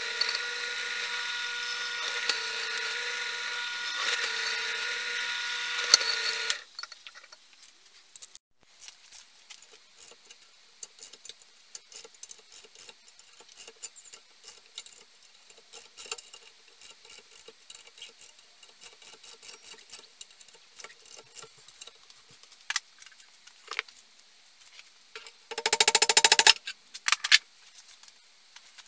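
A small electric power tool runs at a steady pitch for about six seconds, then stops. Light clicks and taps of parts and tools being handled follow, and near the end there is one more brief burst of about a second.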